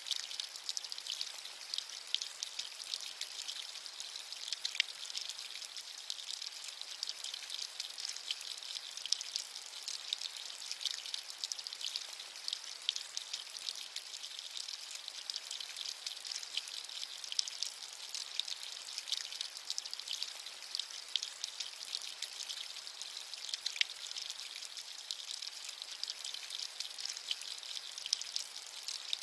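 Steady rain: a thin, high hiss made of many fine individual drop ticks, with almost no low rumble.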